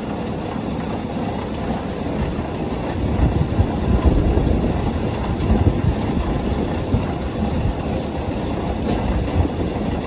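A New Holland 355 grinder-mixer's hammermill running, driven off a John Deere 4230 tractor, a dense rattling rumble that grows a little louder about three seconds in.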